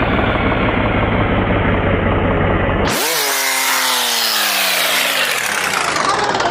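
A machine running with a steady low hum, then, after an abrupt cut about three seconds in, an engine whose pitch falls steadily for about three seconds as it slows down.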